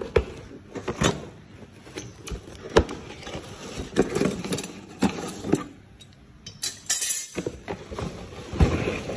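Hands handling a PAR LED stage light: irregular clicks and knocks with some rustling, and a louder rustle about seven seconds in.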